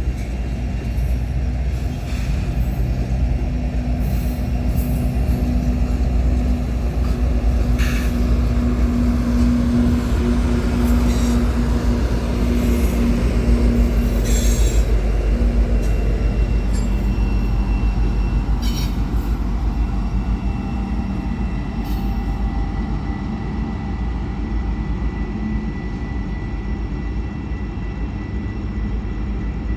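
Rock freight train rolling past, a steady loud rumble of its wagons with scattered sharp clicks from the wheels and thin squealing tones.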